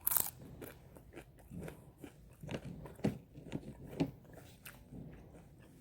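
Close-up mouth sounds of a person eating: one loud crunchy bite right at the start, then steady chewing with small clicks and wet smacks.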